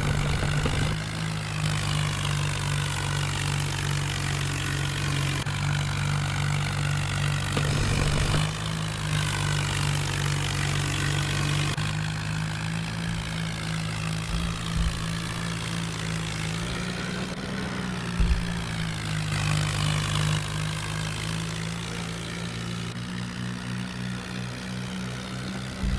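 Swaraj tractor's diesel engine running steadily, its pitch shifting slightly a few times as the engine speed changes.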